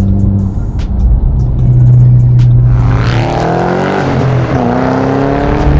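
Sports car engine heard from inside the cabin, droning steadily, then accelerating hard about three seconds in: the pitch climbs, drops at a gear change and climbs again.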